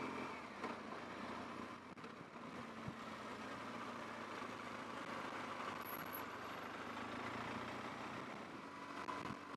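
Steady vehicle noise: an engine running under a continuous hum of road or machinery noise, with no sudden events.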